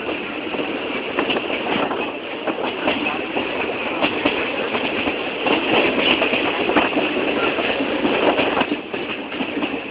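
Passenger train running on the rails, a steady noise full of small knocks and rattles from the wheels and carriage.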